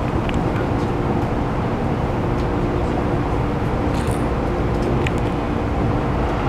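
Keikyu New 1000 series electric train running at an even speed, heard from inside the car: a steady rumble of wheels on rail with a steady hum, and a few faint ticks.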